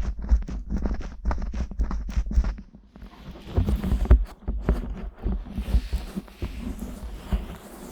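Fingers working the silicone ears of a 3Dio binaural microphone, right at the mics: a quick run of soft, deep thumps, about five a second, then scratchy rubbing and rustling with scattered thumps.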